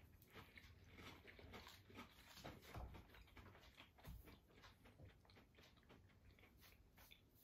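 Near silence with faint chewing: soft mouth clicks and smacks of people eating a soft crepe snack.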